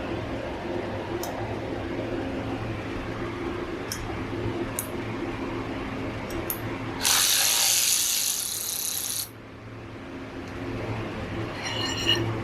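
Hand tools working on bicycle parts: scattered light metallic clicks, a steady hiss of about two seconds in the middle, and a ringing metal clink near the end.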